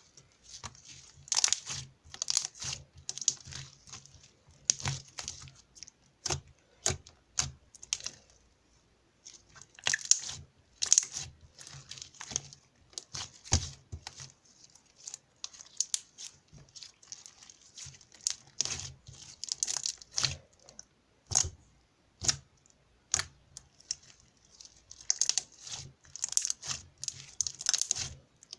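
Slime being squished, stretched and poked by hand, giving irregular sticky clicks, pops and crackles.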